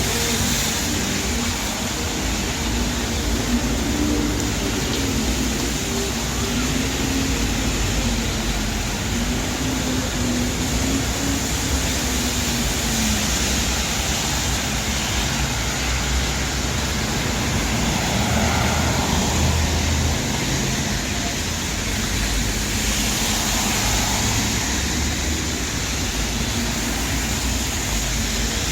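Busy city street in the rain: a steady hiss of traffic on wet roads and falling rain, with a wavering low engine hum in the first dozen seconds.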